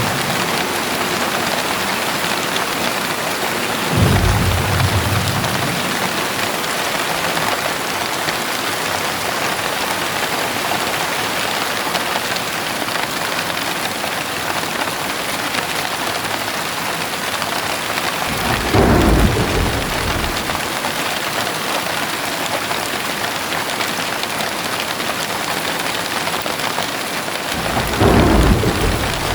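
Heavy rain falling steadily, with three short low rumbles of thunder: one about four seconds in, one around nineteen seconds, and one near the end.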